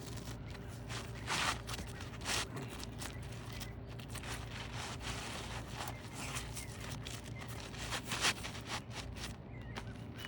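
Asphalt roof shingles being handled and scraped, a few short louder scrapes over a steady low rumble.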